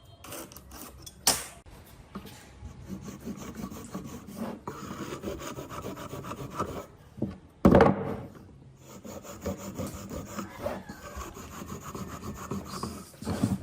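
Scraping on wood by hand: an uneven, rough rasping that goes on throughout. There is a sharp knock about a second in, and a louder thump a little past halfway.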